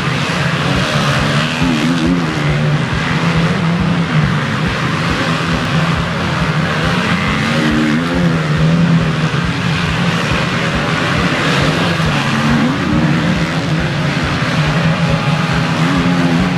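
Four-stroke motocross bikes racing, their engines revving up and down in a loud, continuous din.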